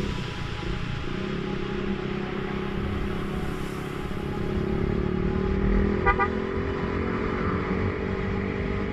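Yamaha Vixion single-cylinder motorcycle engine running under way, its pitch slowly rising over the second half, with a short horn toot about six seconds in.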